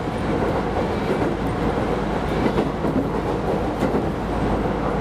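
Keisei Line rapid train running along the track, heard from inside the car: a steady rumble of wheels on rails with a few sharp clicks.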